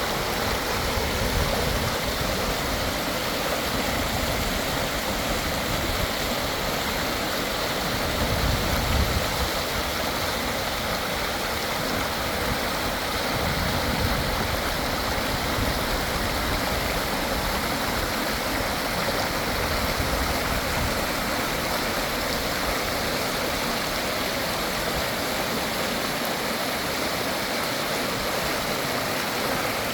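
A stream running steadily: a continuous, even rush of water, with a few brief low rumbles mixed in.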